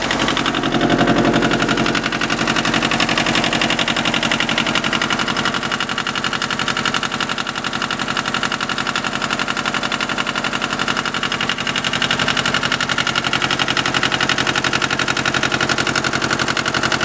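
Yanmar 18-horsepower two-cylinder diesel tractor engine idling steadily, with an even, rapid run of firing pulses.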